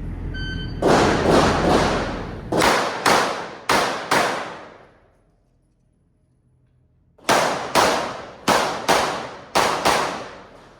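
Shot timer beeps, then a 9mm pistol fires rapid strings of shots, mostly in pairs, with echoing tails: about seven shots, a pause of about two seconds, then about six more.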